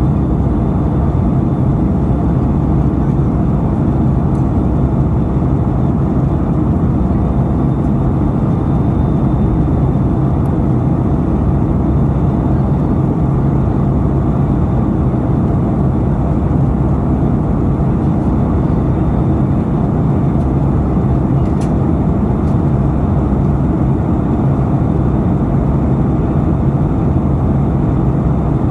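Steady low rumble of a jet airliner's engines and airflow heard inside the passenger cabin during the climb after takeoff, with a constant low hum.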